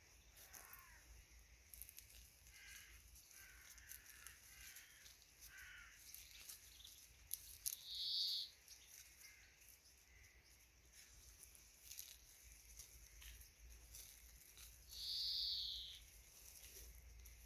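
Outdoor birdsong: faint chirping early on, then two louder, high-pitched calls of about a second each, roughly seven seconds apart, over quiet background with small faint clicks.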